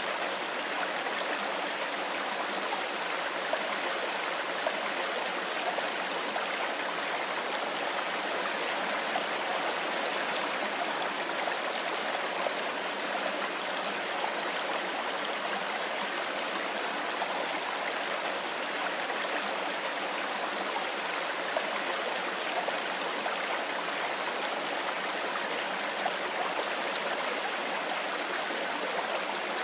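A mountain stream running over rocks: a steady, even rush of flowing water.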